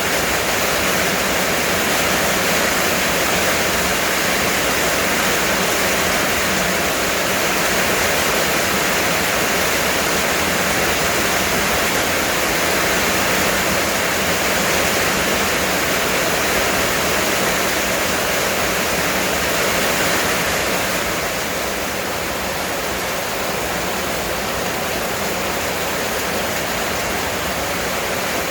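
Heavy rain pouring steadily, a dense even hiss of water. It eases slightly about three quarters of the way through.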